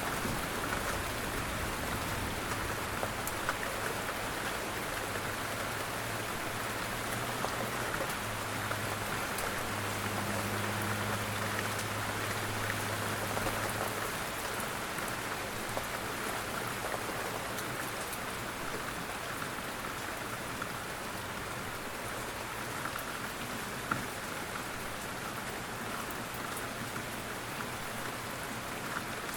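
Steady rain falling, with many small drops hitting a surface. A low rumble sits under it in the first half and dies away about halfway through.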